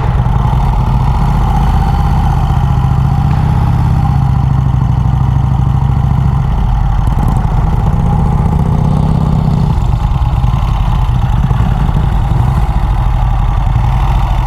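Vincent motorcycle engine idling steadily, its low note shifting slightly a few times.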